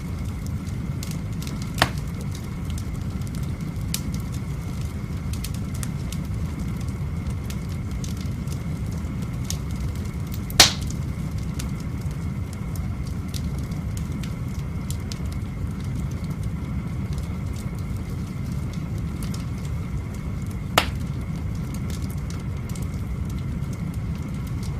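Wood fire burning in an open fireplace: a steady low rumble with faint crackling, and three sharp pops of the burning wood about 2, 10 and 21 seconds in, the middle one the loudest.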